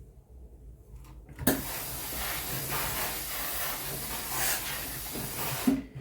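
A steady hiss lasting about four seconds. It starts about a second and a half in with a sharp knock and stops with a thump near the end.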